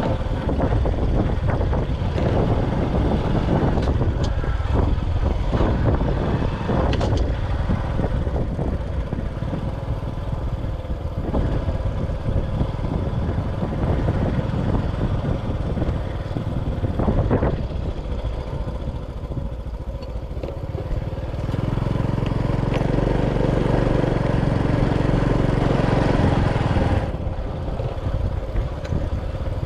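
Motorcycle running along on a ride, with continuous road and rushing noise; about three-quarters of the way through, a steady engine hum with a clear pitch comes up louder for several seconds, then drops back.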